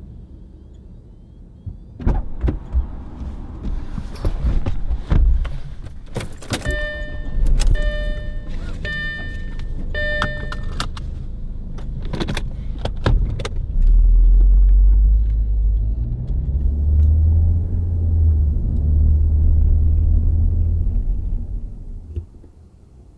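Keys jangling with clicks and knocks of a car being opened and got into, a car chime beeping four times at even spacing, then a car engine starting about fourteen seconds in and running with a loud low rumble.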